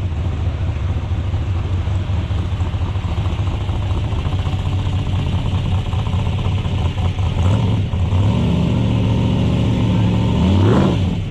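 Car engine idling with a steady low note that grows louder about eight seconds in, then a quick throttle blip that rises and falls in pitch near the end.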